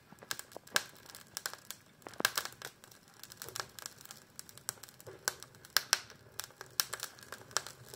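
Freshly lit kindling of dry vine cuttings, pallet boards and beech crackling as the fire catches in an open-door wood stove, with irregular sharp pops.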